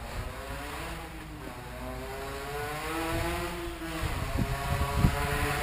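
Car engine running with a steady drone, its pitch rising slightly and falling back around the middle, with a couple of short knocks near the end.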